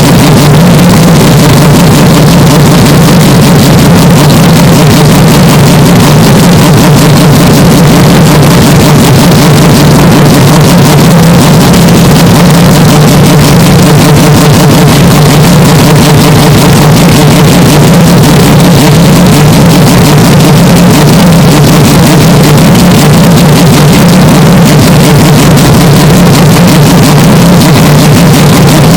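Hyundai Elantra N's turbocharged 2.0-litre four-cylinder engine and exhaust running at a steady, unchanging pitch, boosted so loud that it is heavily clipped and distorted.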